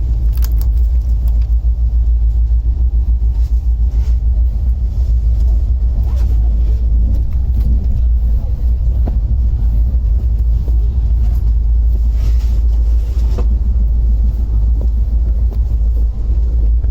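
Steady heavy low rumble of a moving express train, with a few faint knocks.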